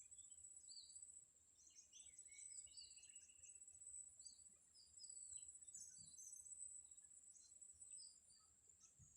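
Faint, scattered chirps and short whistles of small birds, over a steady thin high-pitched whine.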